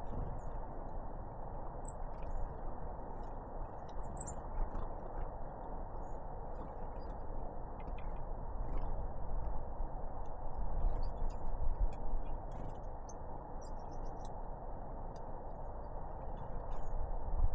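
Faint, short, high chirps and calls from small birds, scattered irregularly over a steady low outdoor noise that swells a little partway through and again near the end.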